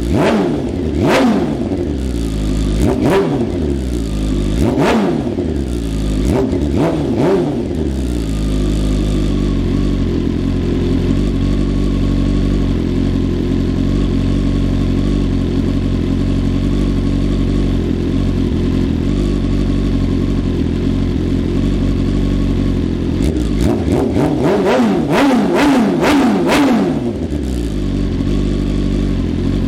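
2020 BMW S1000RR inline-four engine being revved in place: several quick throttle blips that rise and fall, a steady idle, then a rapid burst of revs near the end before it settles back to idle.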